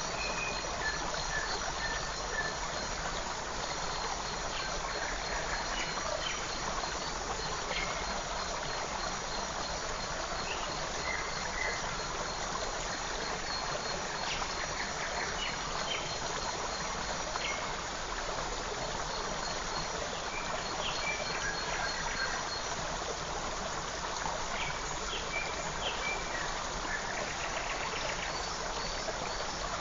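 A forest creek runs with a steady rush of water. Short bird chirps come through it every few seconds, over a faint, high, continuous trill.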